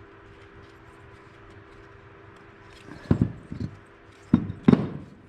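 A few sharp knocks and clatters of chainsaw parts and tools being handled on a workbench, starting about three seconds in and again a second later, over a faint steady hum.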